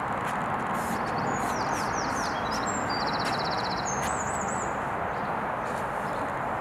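Steady outdoor city rumble, like distant traffic, with a small songbird singing a varied run of trills, a fast buzzy rattle and wavering whistles for a few seconds in the middle.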